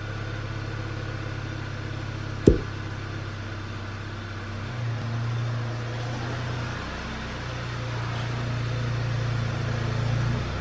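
Car engine idling steadily, with one sharp click or knock about two and a half seconds in.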